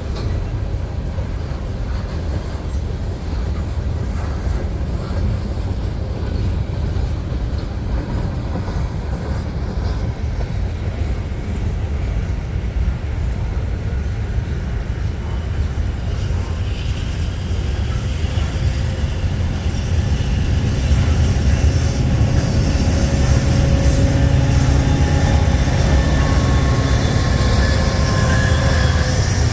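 Union Pacific freight train rolling past slowly, a steady low rumble of wheels and cars with faint wheel squeal. The rumble, squeal and hiss grow louder about two-thirds of the way through.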